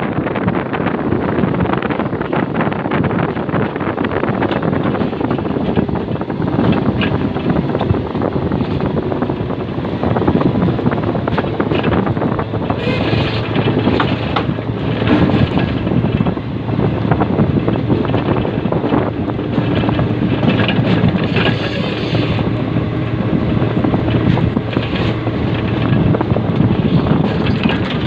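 Railway ballast regulating machine working on the track: its engine runs continuously under many sharp knocks and clatters, with wind on the microphone.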